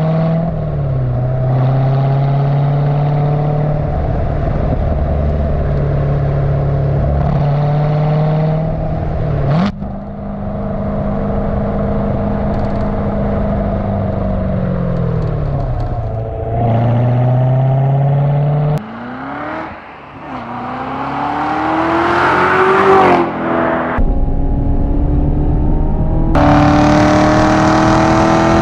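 Chevrolet C7 Corvette Z06's supercharged 6.2-litre V8 exhaust while driving, mostly holding a steady note with a few dips. A little past halfway it climbs hard in pitch under full acceleration and breaks off sharply at a gear change, then climbs slowly again near the end.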